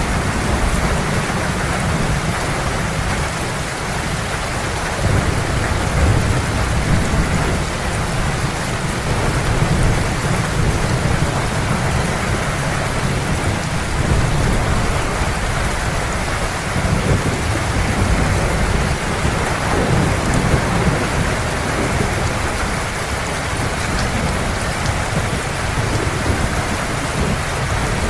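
Heavy rain falling steadily, with a continuous low rumble of rolling thunder underneath.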